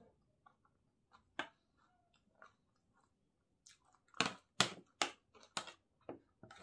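Close-miked chewing of a crisp panipuri mouthful: soft mouth clicks, one sharp crunch, then a run of four or five loud crunches a little past the middle.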